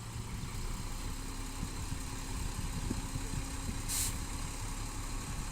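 Diesel engines of earth-moving machinery running at idle, a steady low rumble, with a short hiss about four seconds in.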